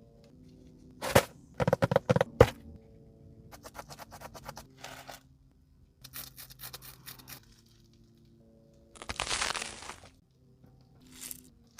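Food being handled and broken up for eating: a few sharp loud cracks about a second in, then runs of fine crisp crackling and a rustling, tearing burst near the end, over faint background music.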